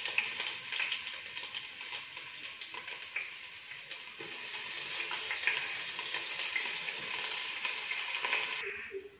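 Garlic, green chilli and ginger paste sizzling in hot oil in a cooking pot, a steady crackling hiss that dies away near the end.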